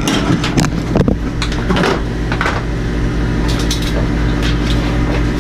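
A steady mechanical hum, a machine running in a boat's engine room, with scattered short clicks and knocks of hands working among the cables.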